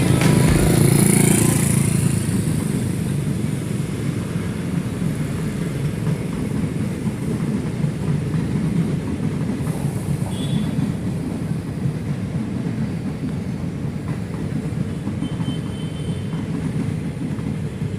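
Small ride-on park train running along its track, a steady low rumble with a few brief high squeals.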